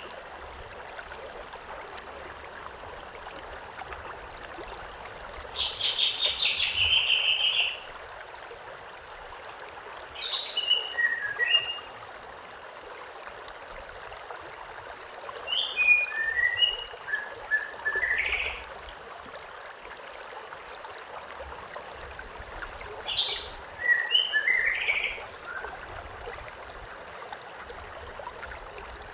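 Birds singing over the steady rush of a stream, in four short bursts of chirps and slurred notes spaced several seconds apart; the first is a dense trill.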